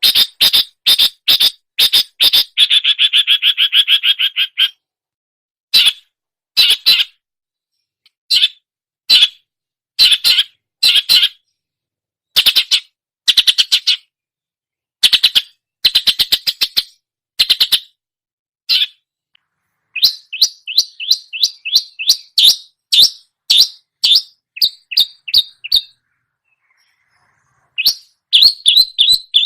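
Long-tailed shrike (cendet) singing a loud mimicking song: runs of short, sharp chirps, a fast rattling trill a few seconds in, and brief pauses between phrases, with a silence of about two seconds near the end.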